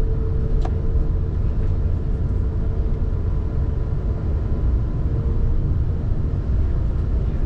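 Steady low rumble of an Airbus A380 heard inside the passenger cabin, with a steady hum over it and a single click just under a second in.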